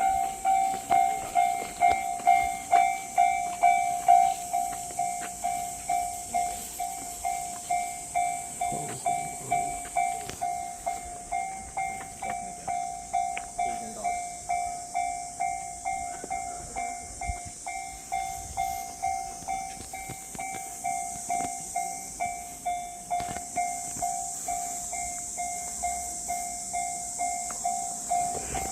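Railway crossing warning bell dinging steadily, about twice a second, growing softer through the middle and slightly louder again near the end.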